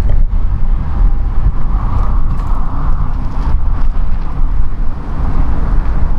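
Wind buffeting the microphone: a loud, uneven low rumble with a hiss rising and falling above it.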